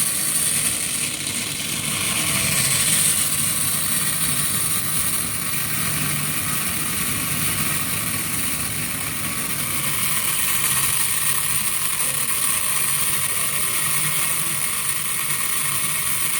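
Seed-sorting machine running steadily: a continuous mechanical drone with a high hiss over it.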